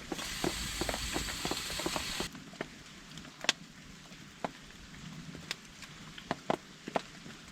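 Rain on a camping tarp, a dense steady hiss that cuts off suddenly about two seconds in. After that, quieter scattered sharp ticks of drops.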